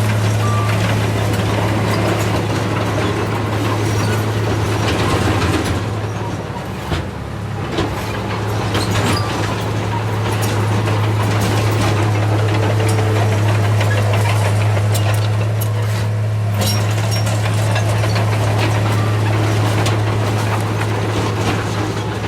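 Heavy diesel earthmoving machine running steadily with a constant low engine hum, with metallic clanks and rattles throughout; the engine eases off briefly about six seconds in.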